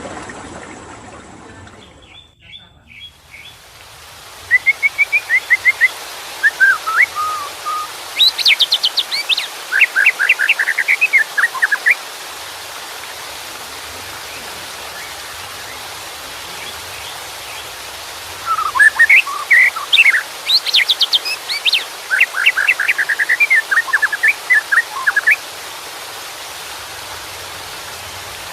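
White-rumped shama singing two long runs of quick, varied whistled and chattering phrases over a steady rush of running water.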